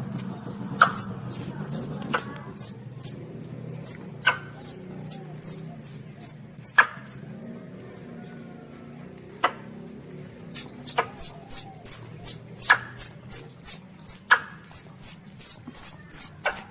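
Baby Asian palm civet (luwak) calling: a rapid series of short, high-pitched squeaks, each falling in pitch, about three a second. The squeaks pause for a few seconds past the middle, then resume.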